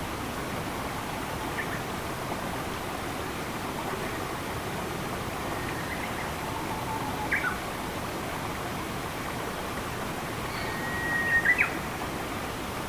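Forest ambience: a steady rush of flowing water with a few brief bird chirps, the loudest a held whistle ending in sharp notes near the end.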